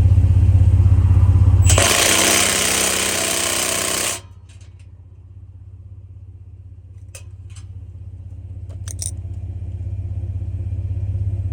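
2017 Ford F-150's 3.5-liter EcoBoost V6 idling, its exhaust giving a steady low pulsing drone with no audible puffing from the re-tightened joint: the exhaust leak appears fixed. About two seconds in, a loud hiss lasts a couple of seconds. Then the exhaust note drops sharply and slowly grows louder again, with a few light clicks.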